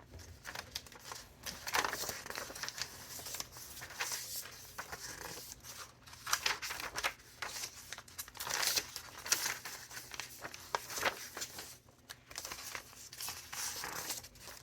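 Pages of a thick handmade junk journal being turned and handled, the paper rustling and crinkling in irregular crisp strokes.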